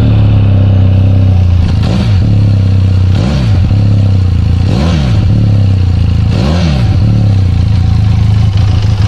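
Benelli Leoncino 500's two-cylinder engine idling, with four short throttle blips that rise and fall in pitch.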